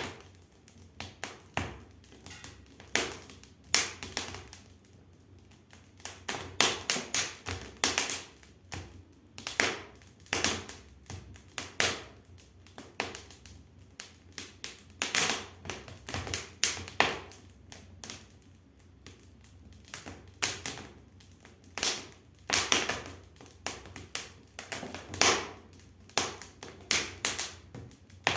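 Wood fire in a newly built brick fireplace crackling, with irregular sharp pops and snaps, some single and some in quick clusters. The wood is damp pine, which pops as it burns and is slow to catch.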